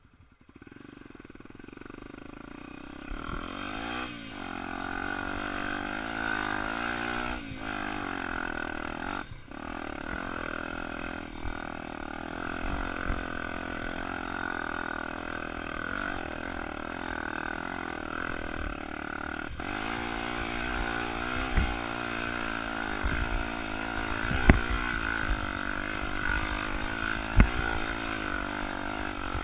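Tornado 300 trail motorcycle engine climbing a hill, its revs rising and falling as the rider works the throttle. Sharp knocks stand out about three times in the last third.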